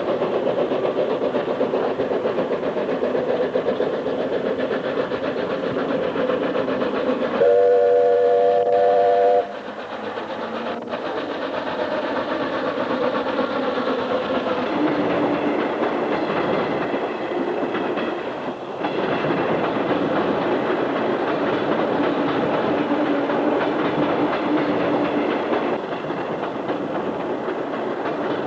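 Small battery-electric locomotive train running on its rails, a steady rumble of wheels and cars. About seven seconds in, its horn sounds for about two seconds.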